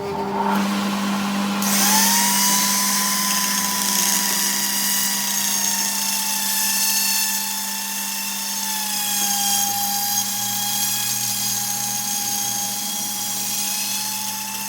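A power tool working metal, running steadily with a whine that holds near one pitch and a hum beneath it; a strong hiss joins about two seconds in, as the tool bites into the work.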